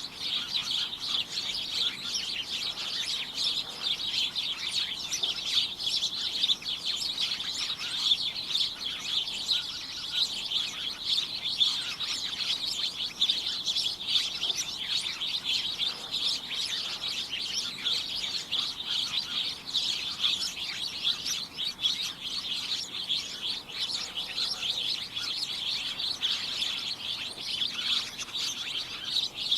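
A dense, continuous chorus of many small birds chirping and tweeting all at once, a steady cacophony of short high chirps with no let-up.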